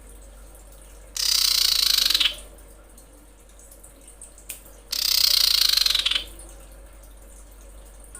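Female common iora giving two harsh, rasping chattering calls, each about a second long, the second starting about two and a half seconds after the first ends.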